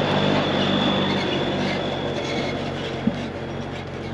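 Semi truck engine running steadily while under way, with tyre and road noise.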